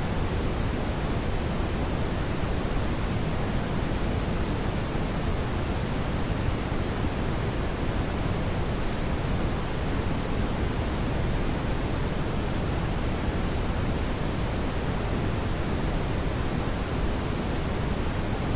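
Brown noise: a steady, even rumbling hiss, heaviest in the low end and thinning toward the top, without change.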